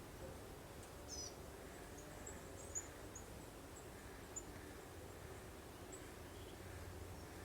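Soft, steady wind with faint birds chirping: scattered short high chirps and one warbling call about a second in.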